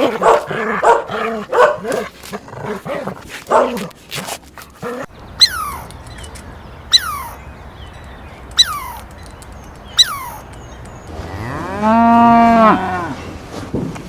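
A dog barking rapidly for about five seconds, then four short, sharp falling calls about a second and a half apart, then a cow mooing once, a long rising-and-falling moo.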